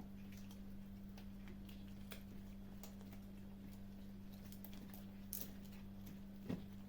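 Kittens chewing and crunching food: scattered small clicks and crunches, with two sharper knocks near the end. A steady low electrical hum runs underneath.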